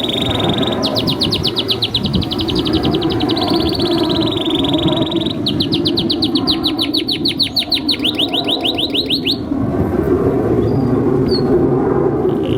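Domestic canary singing: two long, fast trills of rapidly repeated high falling notes, several seconds each, then the song stops near the end. A steady low rumble runs underneath throughout.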